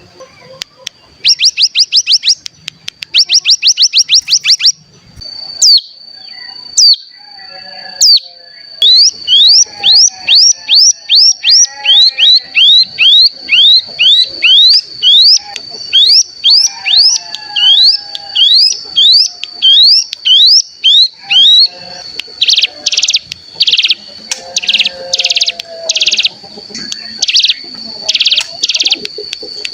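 Ciblek gunung singing. It starts with bursts of rapid trills, then gives a long run of quick slurred whistles, about two a second, over a steady high tone. Near the end come short buzzy rattling notes, the 'ngebren' trill.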